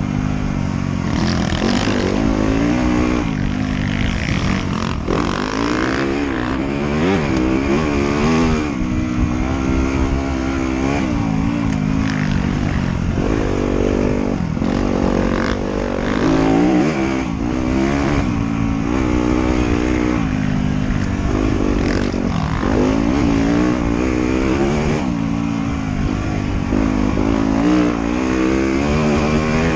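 Off-road motorcycle engine being ridden hard on a trail, revving up and easing off over and over as the rider works the throttle and gears, its pitch rising and falling every second or two.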